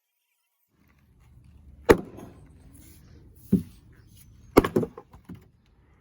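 Several sharp knocks over a low rumble. One loud knock comes about two seconds in, another about a second and a half later, then three in quick succession near the end.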